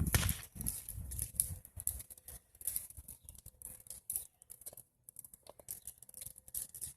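Wood bonfire of old garage lumber crackling, with many irregular sharp snaps and pops.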